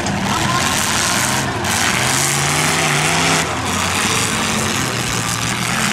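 Engines of several demolition derby cars running and revving together in a loud, dense noise. One engine's note stands out and holds for about a second, from around two seconds in.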